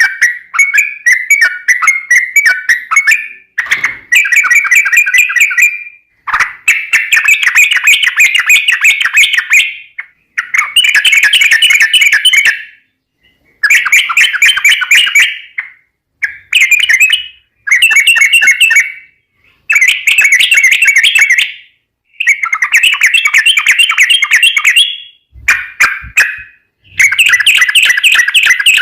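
Yellow-vented bulbul (trucukan) singing loud, rapid bubbling phrases, each two to four seconds long, with short pauses between.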